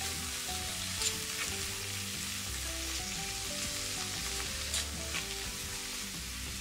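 Spinach, onion and green chillies sizzling in hot oil in a kadai while being stirred with a metal utensil, with a few sharp clicks of the utensil against the pan. Soft background music with held low notes plays underneath.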